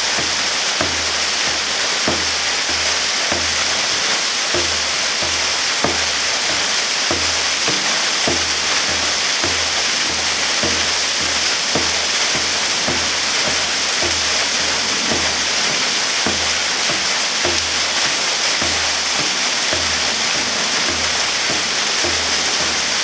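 Waterfall pouring in a steady, loud rush, with an uneven low rumble beneath it.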